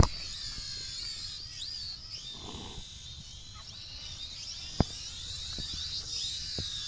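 Birds chirping in quick repeated short calls over a steady high-pitched whine, with a sharp click at the start and another about five seconds in.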